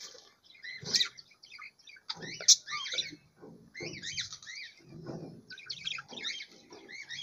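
Small aviary birds chirping in quick, repeated twittering calls, with rustling and knocking as a plastic bottle drinker is handled and hung on the wire mesh.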